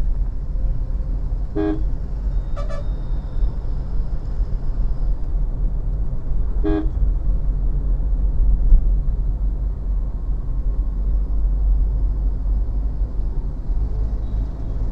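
Steady low road and engine rumble heard inside a moving car on a highway, with three short vehicle-horn toots about two, three and seven seconds in.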